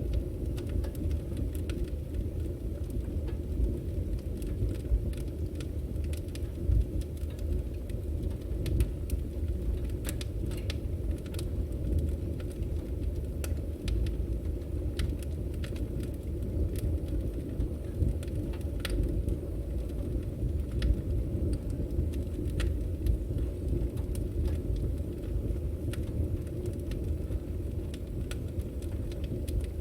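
Firewood burning: a steady low rumble of flames with irregular sharp crackles and pops from the burning logs.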